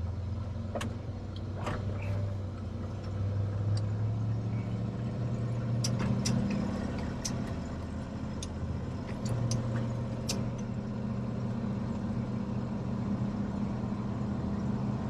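1996 Ford F250 truck engine running steadily while driving, heard from inside the cab, with scattered sharp clicks and rattles, most of them between about six and ten seconds in.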